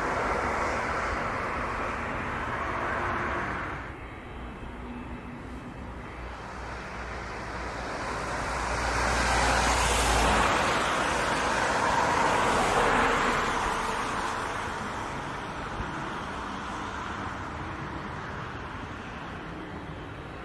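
Jet airliner engines, a broad noise that swells to a peak about halfway through and then slowly fades as the aircraft passes. An earlier stretch of similar noise cuts off abruptly about four seconds in.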